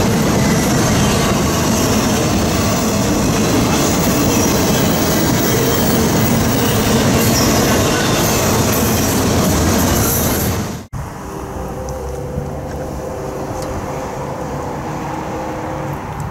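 Double-stack intermodal freight train's cars rolling past: a loud, steady rumble and rattle of wheels on rail. It cuts off abruptly about eleven seconds in, leaving a quieter background with faint steady tones.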